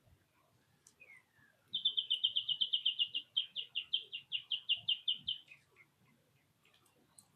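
A small songbird singing one long trill: a fast run of high, evenly repeated notes, about seven a second, lasting three to four seconds and slowing slightly near the end, after a short falling note about a second in.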